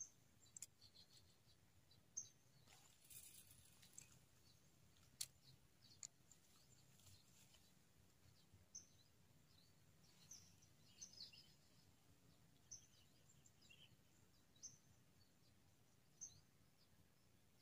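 Near silence outdoors, with faint, scattered high chirps of birds and a few soft clicks.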